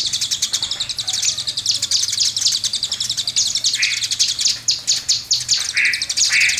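Songbird singing a continuous, high-pitched rapid trill of fast ticking notes, broken about 4 s in and twice near the end by short, lower, rising chirps.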